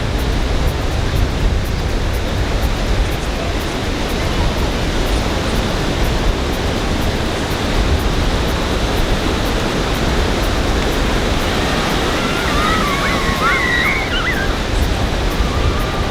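Ocean surf washing onto a beach, a steady rushing noise with heavy wind rumble on the microphone. Brief high wavering calls are heard about three-quarters of the way through.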